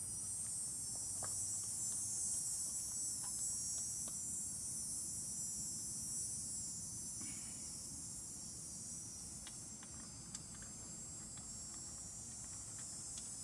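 A steady, high-pitched insect chorus that eases slightly about two-thirds of the way through, with a few faint clicks.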